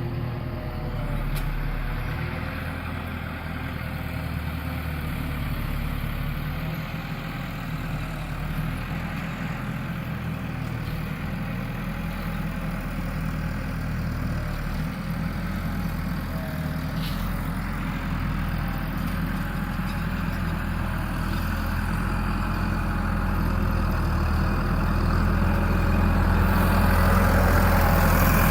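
Tractor engine running steadily, growing gradually louder through the second half.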